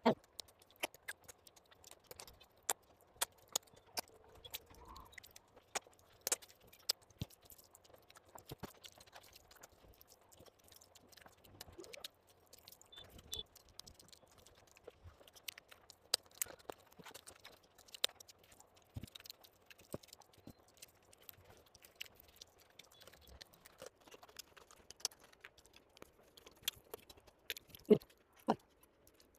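Close-up mouth sounds of a person eating rice and fish curry: chewing and lip smacks, heard as a steady scatter of short wet clicks.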